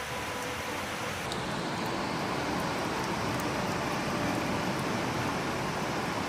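Heavy rain falling steadily, a dense even hiss that swells slightly about a second in, with a few faint ticks of drops.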